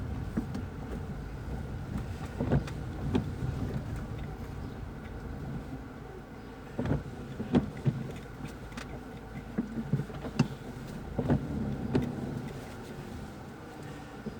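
Car running at low speed, heard from inside the cabin during a parking manoeuvre: a steady low rumble with scattered light knocks and clicks.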